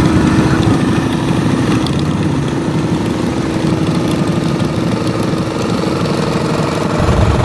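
Motorcycle engine idling steadily, with a louder, deeper rumble taking over near the end.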